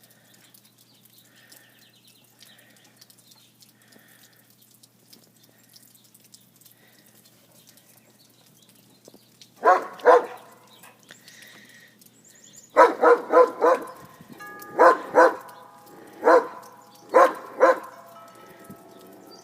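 Dog barking repeatedly, starting about halfway through, in short clusters of two to four barks, about a dozen in all, as it chases birds.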